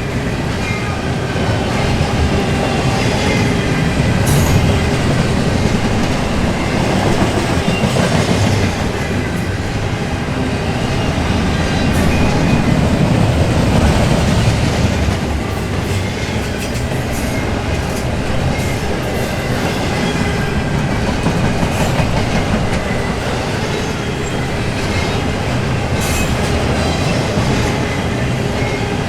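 Intermodal container freight cars rolling steadily past at close range, with a continuous rumble of steel wheels on rail and scattered sharp clicks and clanks as the wheels cross rail joints.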